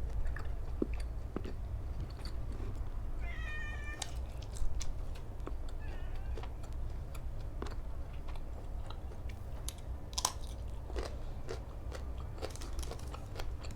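Close-up chewing and crunching of food, with many small clicks and smacks, and one louder crunch near the middle. A cat meows once about three seconds in and again more faintly shortly after.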